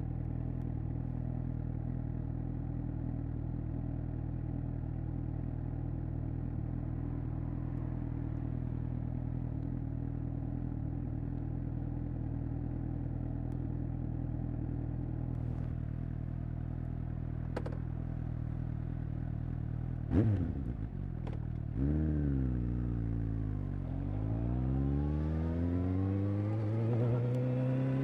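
Suzuki GSX-S750's inline-four engine idling steadily through its exhaust, then a quick sharp rev blip about two-thirds of the way in. The revs then rise and fall, and climb steadily near the end.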